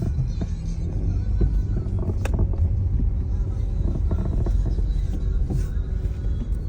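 Car driving slowly, heard from inside the cabin: a steady low rumble of engine and tyres, with a sharp click a little over two seconds in.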